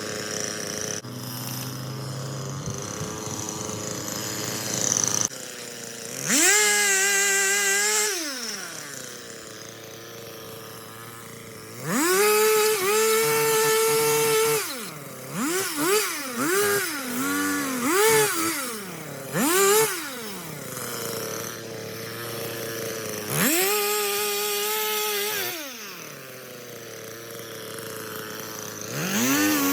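Chainsaw idling between cuts and revving up to full throttle as it saws branches into small pieces. Several long revs rise, hold and drop back, with a run of quick short blips in the middle.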